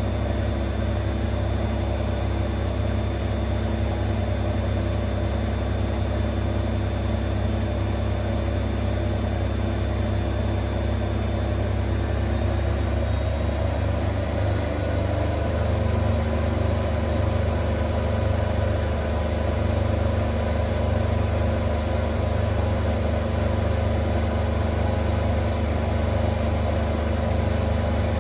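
Zanker EFX 4875 washing machine spinning its drum, a steady motor hum with a high whine; about halfway through, the tones shift and the whine rises slightly as the drum speed changes.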